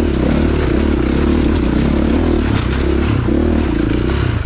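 Dirt bike engine running steadily under load while riding over a rocky trail, with brief clatter from rocks under the tyres.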